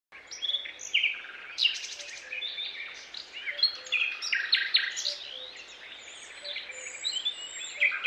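Songbirds chirping and singing, many short, varied calls and trills one after another over a faint steady background hiss.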